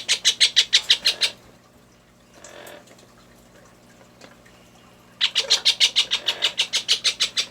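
Baby Indian ringneck parakeet calling in rapid, evenly pulsed chirping bursts, about ten pulses a second: a short burst at the start and a longer one of about two seconds near the end.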